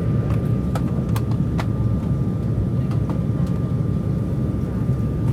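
Steady low rumble of an Embraer 195 jet airliner heard from inside the cabin, engines and airflow, with a thin steady whine over it and a few light rattles.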